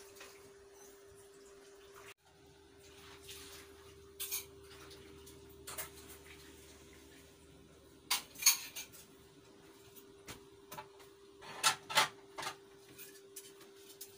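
A few light taps and clinks scattered through, over a faint steady hum.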